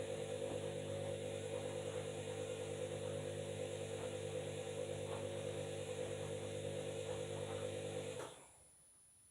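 Washing machine running, a steady motor hum with a slight regular pulse, cutting off suddenly about eight seconds in.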